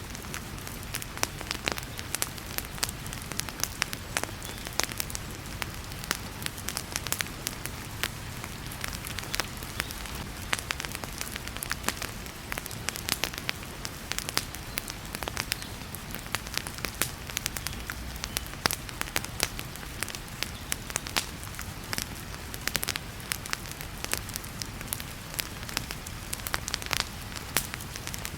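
Wood fire in a fireplace crackling, with many irregular sharp pops and snaps, over a steady hiss of heavy rain.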